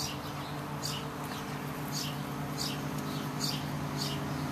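A bird chirping over and over, short high chirps falling in pitch, about one or two a second, over a steady low hum.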